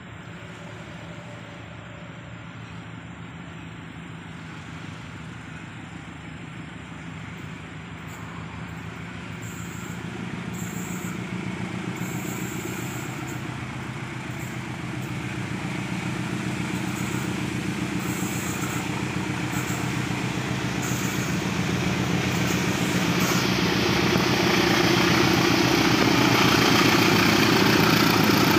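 A diesel-hauled train approaching, its locomotive engine and running noise growing steadily louder.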